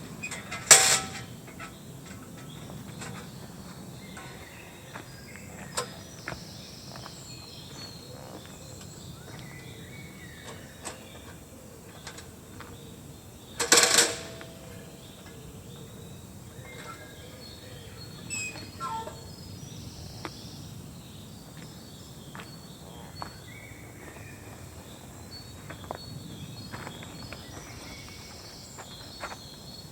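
Outdoor forest ambience: a steady low background rumble with faint high chirps. It is broken by two loud sharp knocks, about a second in and about 14 seconds in, with a few softer knocks between them, typical of camping gear being handled while a camp is packed up.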